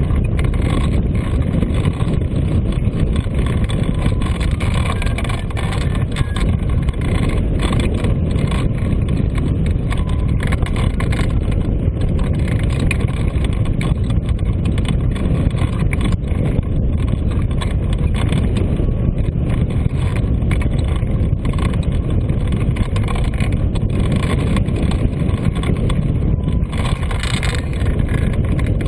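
Wind rushing over the microphone of a hang glider in flight: a steady, loud low rumble with no breaks.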